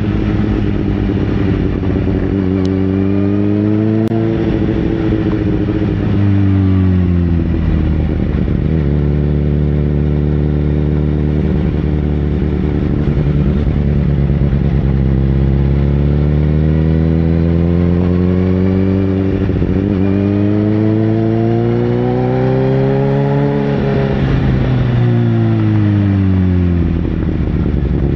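Sportbike engine running under way, its pitch climbing steadily for a few seconds and then dropping back, twice. There is a rougher, clattering stretch between the two climbs.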